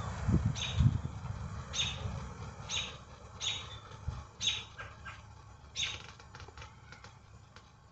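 Birds calling: about six short, high chirps a second or so apart, fading out toward the end. Two low thuds in the first second are the loudest sounds.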